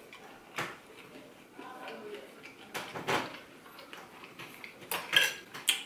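Close-up chewing and wet lip smacking of a mouthful of food, with a few short, sharper smacks about three seconds in and again near the end.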